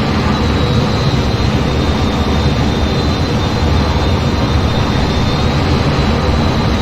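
F-15 jet engine noise: a steady, loud rush with a thin high whine held over it.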